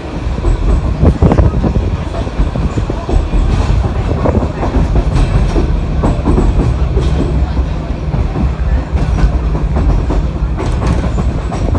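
Narrow-gauge train of the Budapest Children's Railway, hauled by an Mk45 diesel locomotive, running along the line. Its wheels clatter over the rail joints above a steady low rumble.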